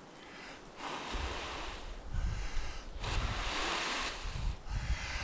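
A person blowing long, steady breaths into a smouldering tinder bundle to coax a hand-drill ember into flame; the tinder is thought to be damp. The breaths come as about four rushing blows with short gaps between them, the first about a second in, with low wind rumble on the microphone.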